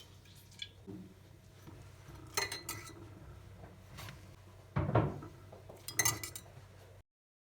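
Dishes and cutlery clinking as tableware is handled, in two short clusters of clinks with a single dull thump between them. The sound cuts off abruptly just before the end.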